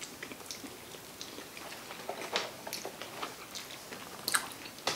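Close-miked chewing of sushi: soft, wet mouth clicks and smacks scattered irregularly, with a sharper click about four seconds in.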